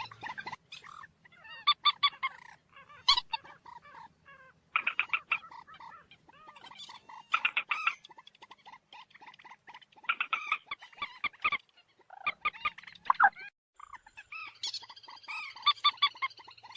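Common moorhen calling in a series of bursts of rapid clucking notes, each burst lasting a second or two, with short pauses between them.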